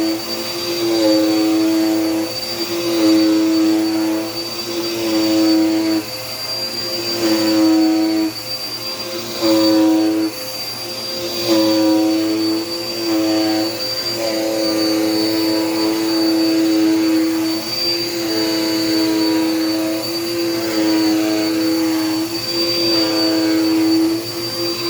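Dirt Devil Power Max vacuum cleaner running on the floor, with a steady high-pitched motor whine over a lower hum that swells and fades every second or two as it works.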